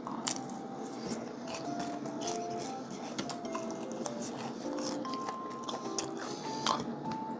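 Crispy fried chicken being bitten into and chewed close to the microphone, a run of crackly crunches throughout. Soft background music with a simple melody plays underneath.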